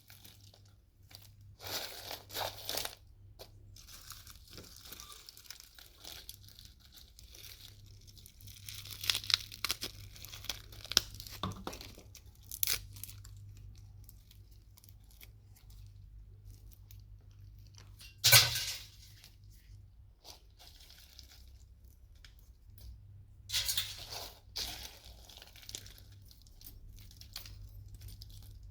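Hand-dismantling of scrap microwave-oven parts: irregular scraping, crunching and clicking of metal and plastic pieces being pried and pulled apart, with one sharp knock about two-thirds of the way through, over a faint low steady hum.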